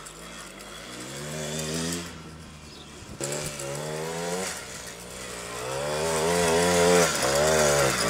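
Small quad bike engine revving up and down as the throttle is opened and eased off three times, the last and loudest rev held longest and wavering.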